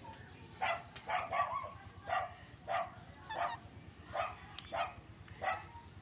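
A run of about nine short, sharp animal calls, roughly two a second, over a low steady background.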